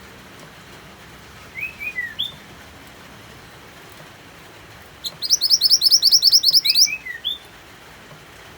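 Mantenan songbird singing over steady rain: a few short down-slurred chirps about one and a half seconds in, then a loud, fast, high trill of about fifteen notes about five seconds in, closing with a few more slurred chirps.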